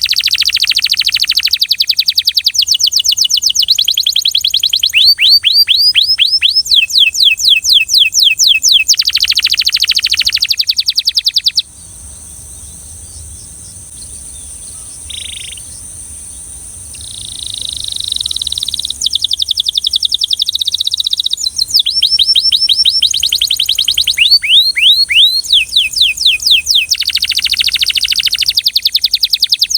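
Belgian canary singing: fast trills of rapidly repeated sweeping notes, broken near the middle by a pause of a few seconds, then a lower rolling phrase before the quick trills return.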